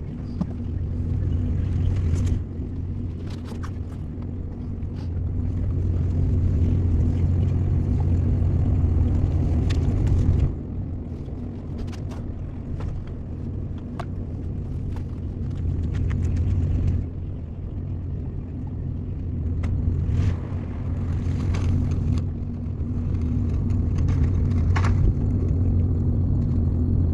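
Small boat motor running steadily with a low drone. Its loudness drops and picks up again several times, and there are scattered light clicks and knocks.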